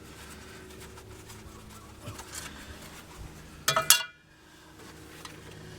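Light metal clinks and rattles from parts being handled on the engine, with one short, louder ringing metallic clank about three and a half seconds in.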